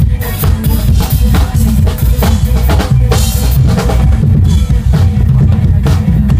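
Drum kit played along to a backing track: a steady stream of kick, snare and cymbal hits over a continuous heavy bass line.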